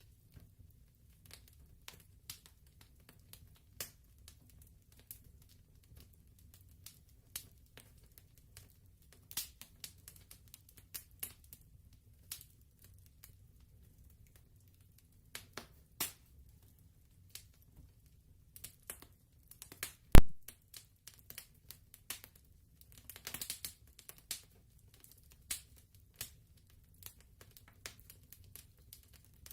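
Wood fire crackling in a fireplace: scattered small snaps over a low steady rumble, with one loud pop about two-thirds of the way through and a brief flurry of crackles soon after.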